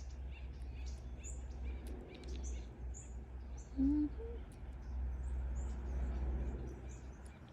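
Small birds chirping, short high chirps scattered throughout, over a steady low rumble. A brief low sound comes about four seconds in.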